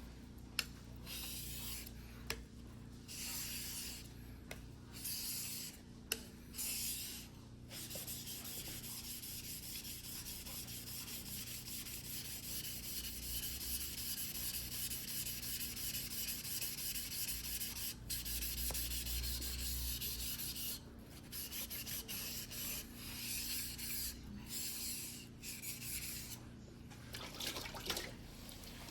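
A single-bevel white-steel fugubiki sashimi knife being stroked by hand across a wet whetstone, a gritty rubbing hiss. At first the strokes come separately, about one a second. Through the middle they run on almost without a break, and near the end they separate again.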